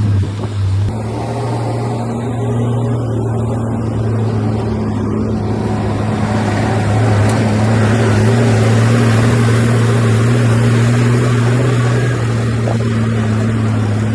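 Diesel engine of a heavy earthmoving machine running steadily with a deep, even drone. A noisy rush builds over it about halfway through and eases off near the end.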